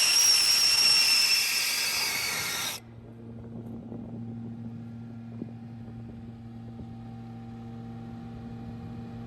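Loud hiss with a steady whistling tone, fading slightly and then cutting off abruptly about three seconds in, leaving a low steady hum.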